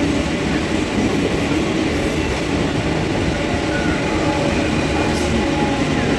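Train running past at close range, a steady loud rumble of wheels on track with no let-up.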